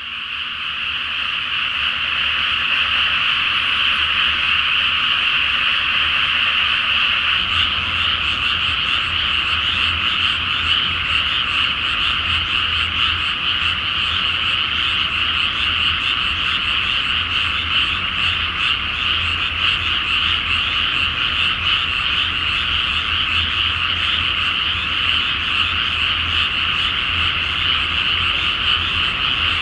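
Dense chorus of many frogs calling at once from a flooded rice paddy, a continuous high trilling mass of overlapping croaks that fades in over the first couple of seconds. A low steady rumble joins underneath about seven seconds in.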